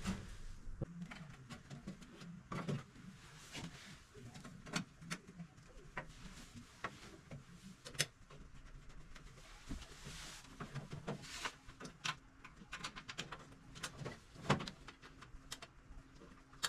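Scattered clicks, taps and knocks of tools and metal boiler parts being handled, with a faint hiss between them.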